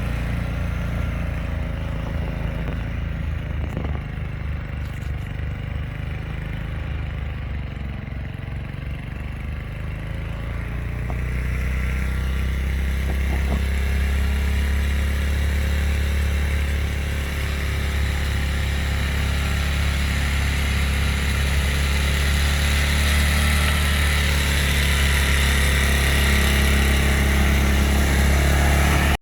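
An engine running steadily, its pitch dipping briefly about nine seconds in and the sound growing louder after that; it cuts off abruptly at the end.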